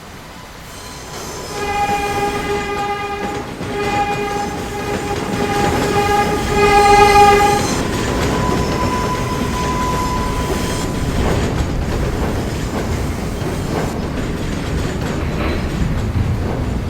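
New York City subway train sounding its horn in three blasts, the last the loudest. The train then runs through the station with a steady high whine, rumble and clicking of wheels over rail joints.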